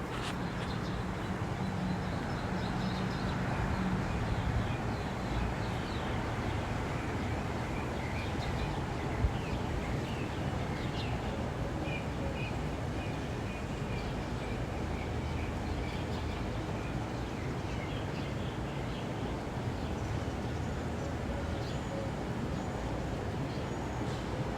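Outdoor street ambience: a steady rumble of passing car traffic with small birds chirping on and off above it.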